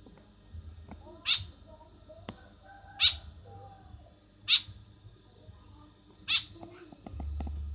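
White-breasted woodswallow (kekep babi) calling: four short, harsh calls about a second and a half apart.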